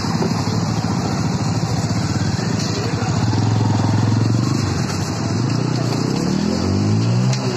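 A motorcycle engine running, its pitch climbing and then dropping near the end.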